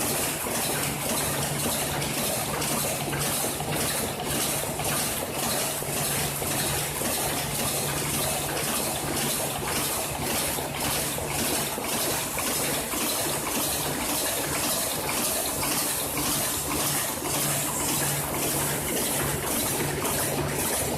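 Automated production machine running continuously, with an even rhythmic cycle of about two strokes a second over a steady hum and a constant hiss.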